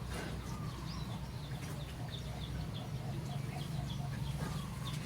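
Chickens clucking in a run of short, evenly spaced calls, over a steady low hum.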